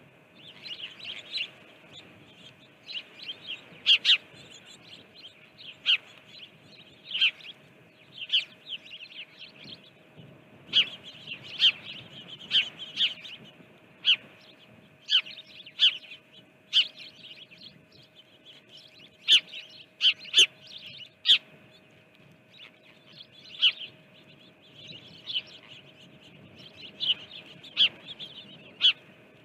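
Small birds chirping close by: many short, sharp chirps coming at irregular intervals, with the loudest ones near the middle. A faint steady hum runs underneath.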